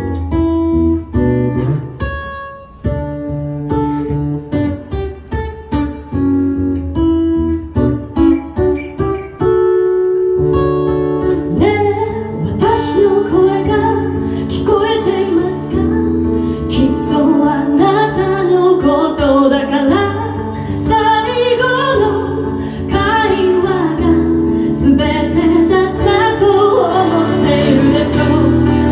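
Live rock band playing an instrumental break with guitar. For the first ten seconds the band plays short stop-start chords and notes with gaps between them; then the full band plays on continuously, with a wavering lead guitar melody over it.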